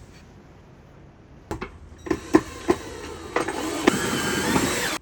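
A few sharp knocks, then a small motor whirring steadily with a slightly wavering whine for over a second.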